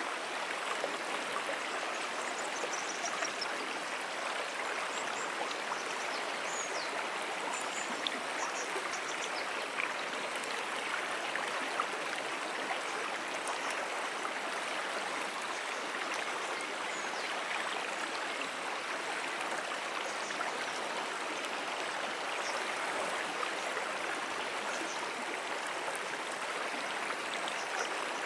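Running water of a brook: a steady, even rush of flowing stream water.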